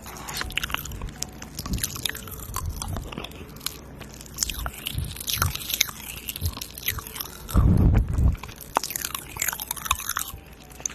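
ASMR mouth sounds close to the microphone: irregular wet clicks and smacks, with a louder low burst of sound about eight seconds in.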